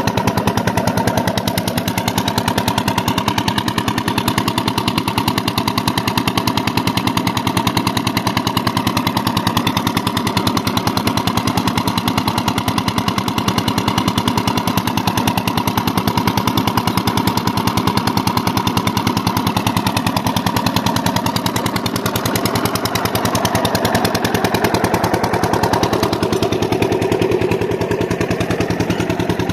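Old diesel engine driving an irrigation water pump, running steadily with a rapid, even chugging exhaust beat.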